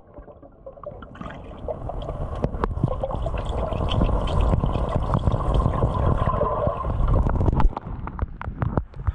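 Swimming-pool water gurgling and sloshing, with many small splashes, building up from about a second in and dropping away near the end.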